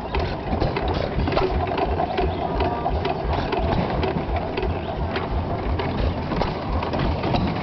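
Engine-driven machinery running, with a rapid, even low pulse under a clatter of gears and ratchet-like clicking.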